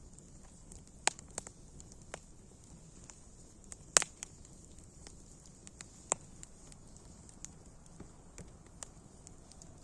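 Wood fire crackling, with sharp irregular pops over a faint steady hiss; the loudest pop comes about four seconds in.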